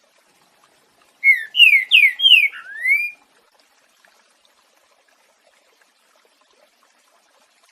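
Green-winged saltator (trinca-ferro) singing one short phrase in the 'boiadeiro' song type: five slurred whistled notes over about two seconds, starting about a second in.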